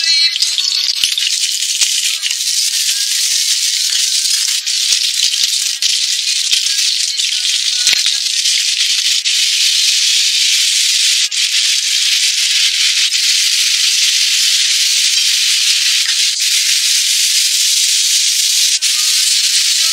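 Scallion, ginger and then pork ribs and vegetables sizzling steadily in hot oil in a stainless-steel wok, with a few light clicks and one knock about eight seconds in.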